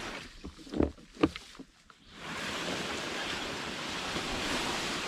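A few short knocks, the loudest about a second in, then a steady rushing noise from about two seconds on.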